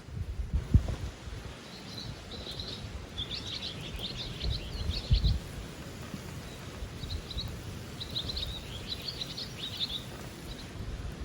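A songbird singing in two bouts of quick twittering chirps, the first from about a second and a half in, the second from about seven seconds in, over a low steady background rumble with a few soft thumps.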